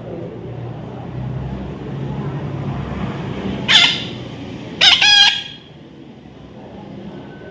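Two loud, harsh bird calls, a short one a little under four seconds in and a longer, wavering one about a second later, over a steady background rumble.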